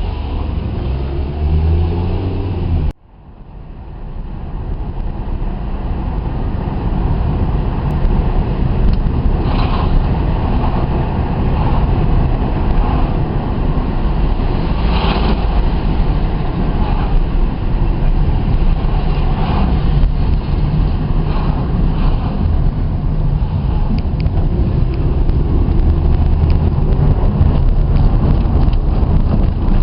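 Engine and road rumble of a moving vehicle, with the engine note rising in the first few seconds. The sound breaks off about three seconds in and comes back as a steady low rumble.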